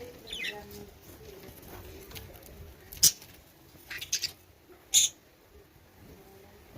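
Pet birds giving a few short, sharp calls, one falling in pitch just after the start and the two loudest about three and five seconds in.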